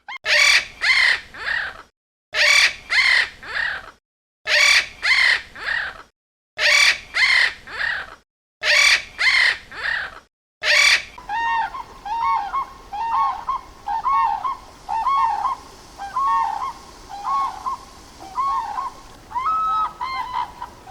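Bird calling: five loud, harsh calls about two seconds apart, then a steadier run of shorter, quieter calls, about one a second.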